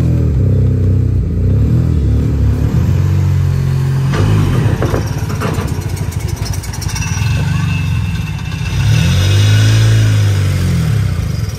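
Turbocharged four-cylinder car engine revving, the revs rising and falling a few times. There is a burst of rapid clattering about four to six seconds in.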